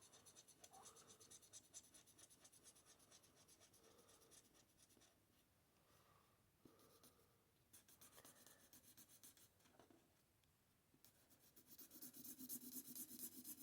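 Faint scratching of an Ohuhu alcohol marker nib being stroked across stamped card, in short repeated strokes that get louder near the end.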